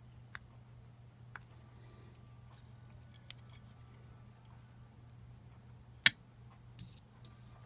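A few light clicks and taps of small hard parts being handled, with one sharp, louder click about six seconds in, over a steady low hum.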